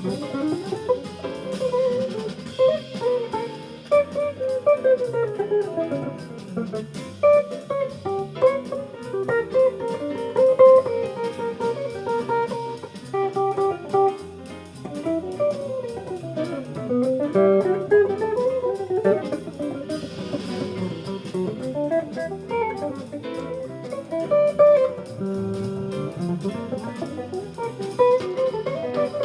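Jazz guitar playing a flowing melodic line, backed by a drum kit.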